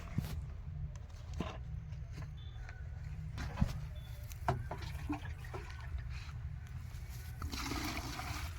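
Tractor engine running with a steady low rumble, with scattered knocks and clicks and a brief hissing rush near the end.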